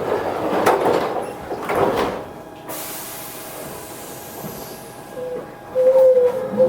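Toyohashi Railway 1800 series train's sliding doors closing with clattering knocks, then a sudden high hiss of air about 2.5 seconds in. A steady tone from the train's electrical equipment comes in near the end as it gets ready to pull away.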